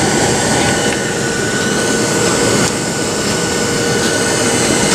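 Steady cabin noise inside a Boeing 737-700: the rush of its CFM56-7B jet engines and airflow, with a faint constant whine.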